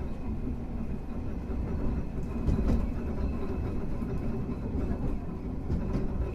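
Hankai Tramway 351-type tram car running along the line: a steady low rumble of wheels and running gear on the rails, with a few light knocks from the track.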